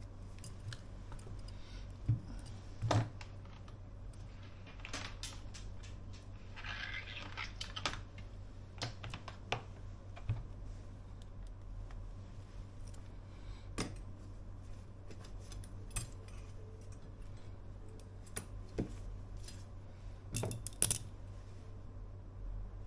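Irregular light clicks and taps of small tools and smartphone parts being handled during an iPhone battery replacement. There is a short scratchy rustle about seven seconds in and a steady low hum underneath.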